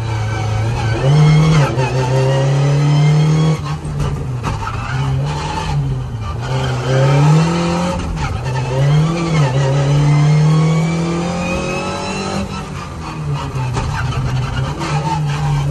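Škoda 120's rear-mounted four-cylinder engine heard from inside the cabin, revving hard, its pitch climbing and dropping again about half a dozen times with throttle and gear changes.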